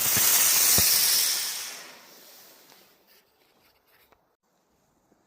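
Firework burning with a loud, high-pitched hiss that dies away over about two seconds, with a couple of small pops in the first second, then near silence.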